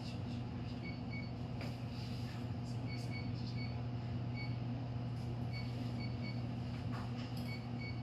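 Steady hum of a stopped electric train's onboard equipment, heard inside the car. Faint pairs of short, high pips come every second or two, with a few light clicks.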